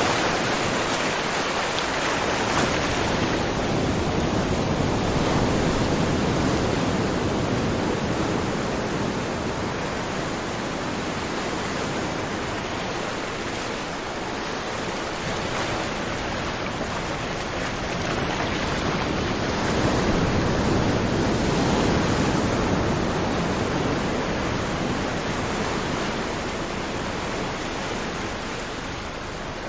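Ocean surf: a steady rush of waves that swells slowly and eases, loudest about five seconds in and again about twenty seconds in.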